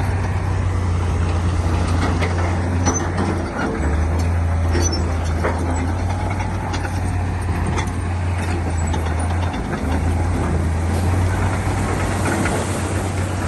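Heavy diesel earthmoving machinery running under load with a steady low drone that dips briefly twice, over scattered clanks and knocks of metal and rock.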